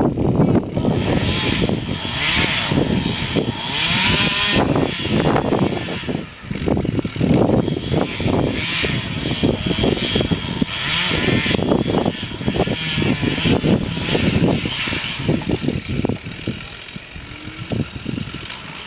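Chainsaw engine running and revving up and down, with irregular knocks and cracks throughout, dropping off somewhat near the end.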